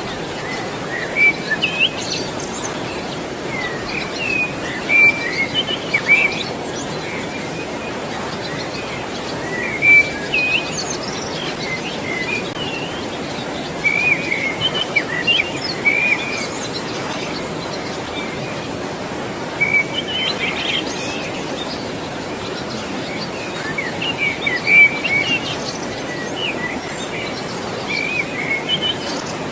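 Birds chirping and calling in short clusters every few seconds over a steady rush of flowing water.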